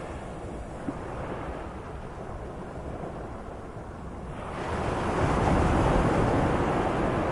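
Medium sea waves: a steady wash of surf that swells louder about four and a half seconds in.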